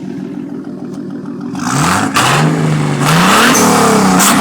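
Straight-piped Datsun 280ZX Turbo's turbocharged straight-six idling, then revving up loudly about a second and a half in. The revs dip briefly about half a second later, then climb again.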